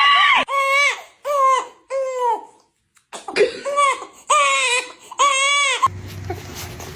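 Young child crying in a series of short rising-and-falling wails, with a brief break about halfway through. Near the end the wails stop and a steady low hum is left.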